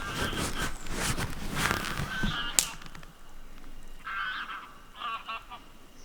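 Short honking animal calls, a few in a row about a second apart in the second half, after a stretch of rustling and clicks that ends in one sharp crack about two and a half seconds in.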